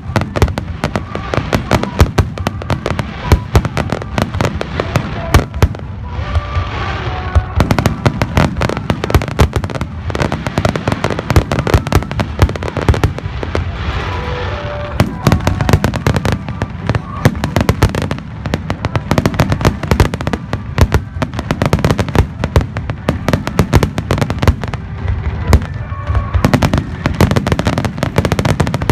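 Fireworks display: a dense, continuous barrage of aerial shells bursting in rapid succession, with faint music and voices underneath.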